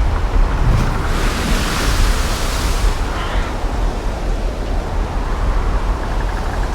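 Wind buffeting the microphone: a loud, steady rumbling rush, with a brighter hiss for about two seconds starting about a second in.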